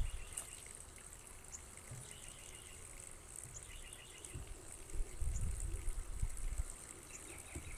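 Outdoor ambience: small birds chirping in short repeated notes, with a low rumble on the microphone that picks up from about four and a half seconds in.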